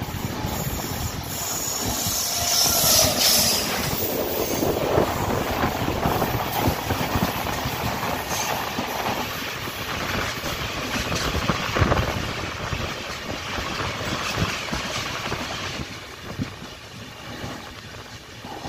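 Rushing wind and wheel clatter of a moving express train, heard from its open doorway, as a passenger train of red coaches passes close by on the adjacent track. The clatter is a dense run of clicks over rail joints, easing off a little near the end.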